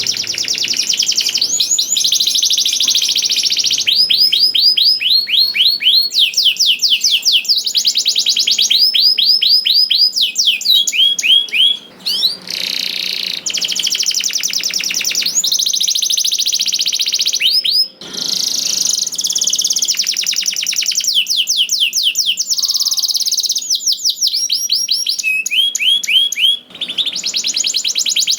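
Male domestic canary singing steadily, high-pitched tours of fast trilled repeated notes and quick sweeps, one run after another, with short breaks about twelve and eighteen seconds in.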